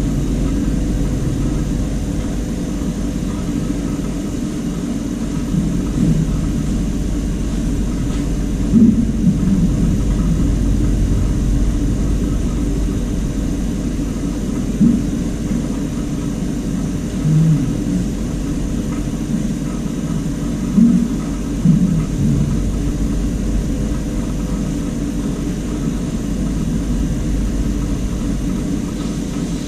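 Brazing torch flame burning steadily with a low rumble while heating an air-conditioner copper pipe joint, with a few short louder blips now and then.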